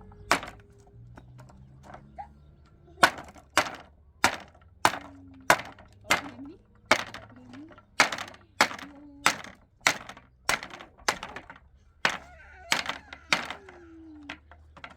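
A steady series of hard blows from a hand tool striking something solid, about one and a half strikes a second, starting about three seconds in after a couple of earlier blows.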